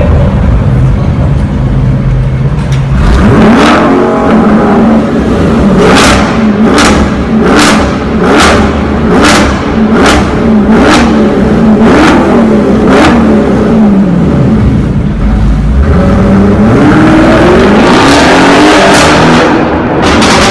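Supercar engine revved hard: about nine short revs in quick succession, each rising and falling in pitch with a sharp crack. Near the end the engine note climbs again as the car accelerates away.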